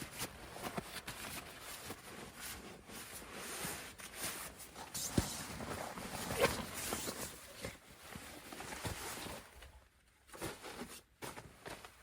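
Irregular rustling and light knocks, with the loudest crackle about six and a half seconds in and a short lull near the end.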